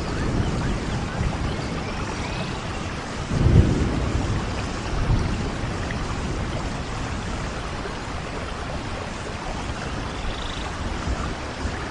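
Steady rain falling, with a low roll of thunder about three and a half seconds in.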